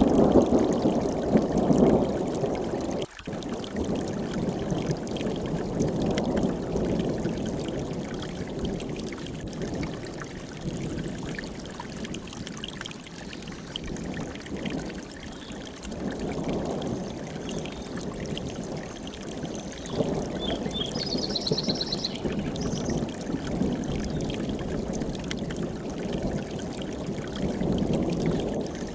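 Mountain stream rushing steadily, its sound swelling and easing, with a brief drop-out about three seconds in. A short high bird call comes about two-thirds of the way through.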